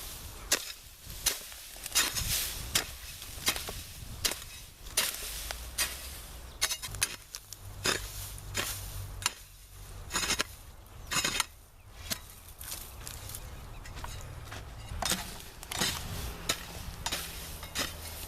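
Irregular sharp knocks and cracks, about one or two a second, from wood being cut and handled, over a faint low hum.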